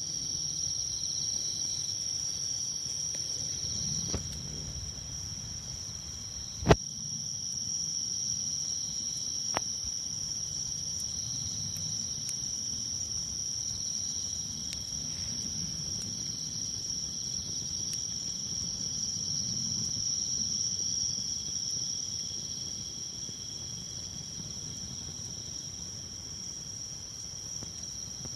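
Insects singing in a steady, unbroken high chorus, with a campfire burning beneath it. The fire gives a few sharp pops, the loudest about seven seconds in.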